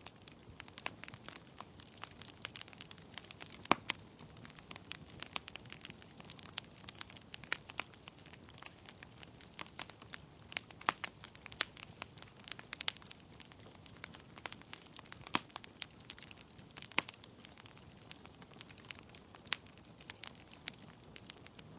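Wood fire burning in a fireplace: a soft steady hiss with many irregular crackles and pops from the burning logs, a few of them louder and sharper.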